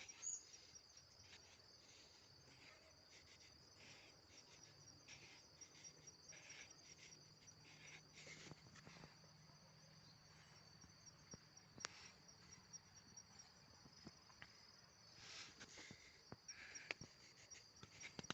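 Faint, steady high-pitched chirping of insects, with scattered soft clicks and scrapes.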